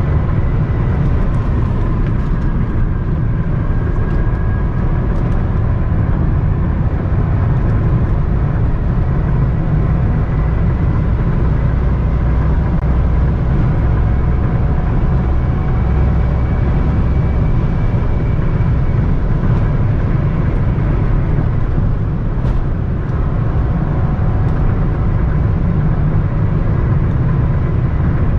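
Cabin noise of a Toyota Camry 3.5Q with its 3.5-litre V6, driven at speed: a steady, heavy low rumble of tyres, wind and engine, with a faint high whine and a few light ticks.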